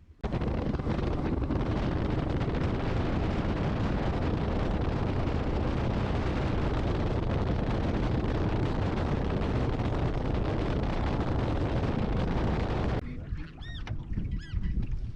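Fishing boat running across the lake: a steady, loud rush of motor and wind noise on the microphone, which cuts off suddenly about 13 seconds in, followed by a few short high squeaks.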